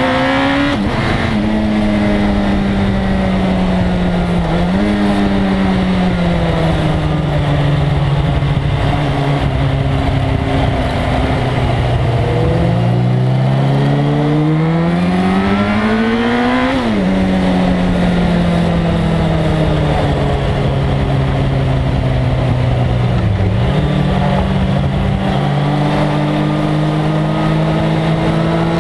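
Suzuki GSX-R1100 inline-four engine at track speed, its pitch sliding down and then climbing steadily for several seconds to a peak before dropping sharply, with brief dips and rises about five seconds in and again near the end, over a steady rush of wind noise.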